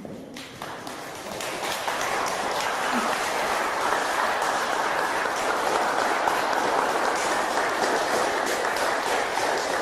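Audience applauding: many hands clapping together, building over the first second or two and then holding steady.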